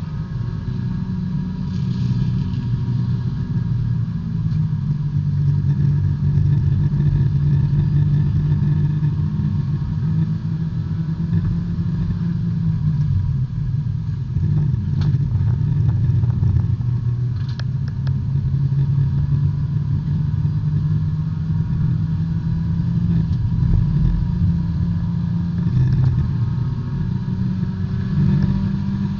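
Small four-cylinder engine of a B-Spec race car heard from the cockpit, running hard at race pace, its pitch climbing and dropping through the gears. A few brief sharp clicks come around the middle.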